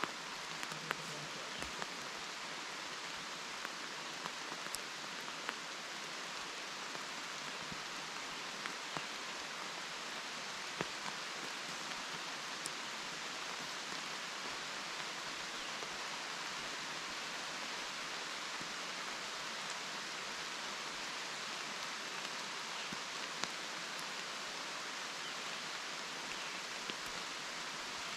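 Steady rain falling on a forest, an even hiss with scattered sharp ticks of single drops striking close by.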